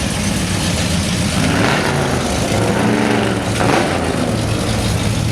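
Classic car engines running with a steady low rumble as the cars drive by.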